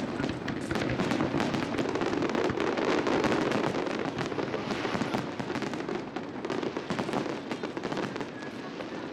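Aerial fireworks bursting, with a dense crackle of many overlapping cracks and pops in quick succession.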